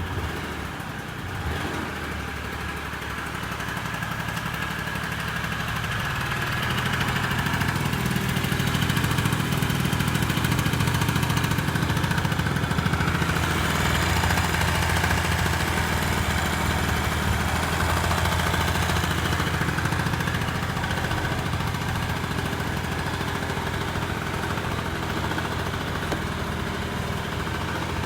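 Honda Lead SS50 (AF10) scooter's small two-stroke engine running at idle just after starting, getting louder over the first eight seconds or so and then holding steady.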